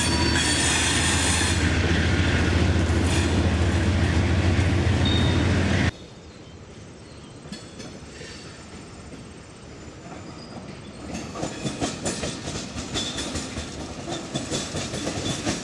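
Freight train of tank cars and covered hoppers rolling past close by: a loud steady rumble of wheels on rail, with a high squeal fading in the first couple of seconds. The sound cuts off suddenly about six seconds in, leaving a much quieter rumble. From about eleven seconds in, a rhythmic clickety-clack of wheels over rail joints grows louder as the train comes nearer.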